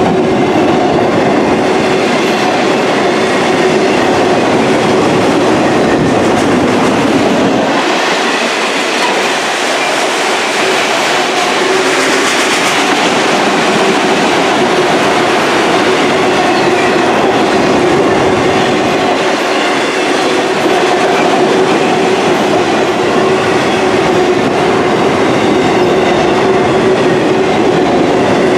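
Autorack freight cars rolling past close by: a steady loud rumble of steel wheels on rail with the clickety-clack of wheels over rail joints.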